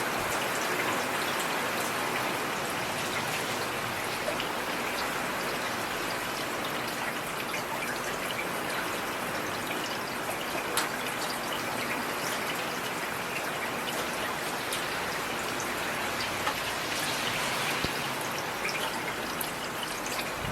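Heavy rain falling steadily, a dense even hiss with sharp individual drops ticking through it.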